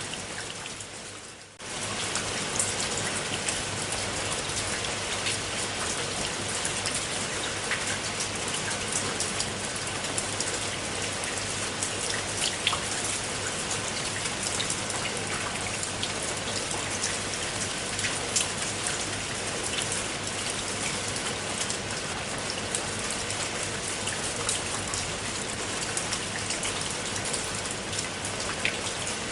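Steady rain falling, a dense hiss with many individual drops ticking on a surface. The rain dips briefly and comes back up in the first second or so.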